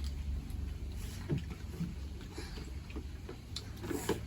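People eating mutton curry and rice: chewing, with scattered small clicks and smacks, over a low steady hum.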